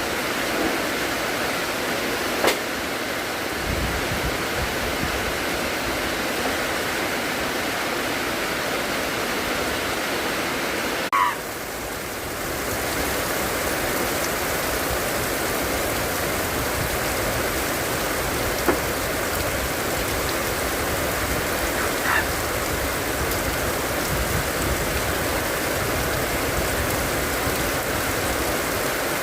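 Steady rain falling, an even hiss, with a few sharp drip-like ticks and a brief break in the sound about eleven seconds in.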